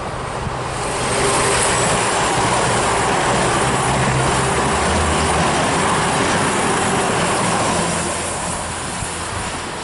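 CrossCountry Voyager diesel multiple unit passing close at speed: its underfloor diesel engines hum over the rush of wheels on the rails. The sound swells about a second in, holds, then eases off near the end as the train goes by.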